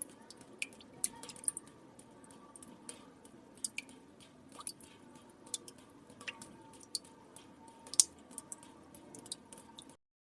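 Water drops falling into still water: many small, irregular plinks and drips, one louder drop about eight seconds in. The sound cuts off suddenly near the end.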